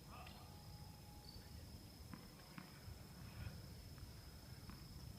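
Quiet outdoor background: a steady thin high-pitched tone with a few faint, scattered clicks over a low rumble.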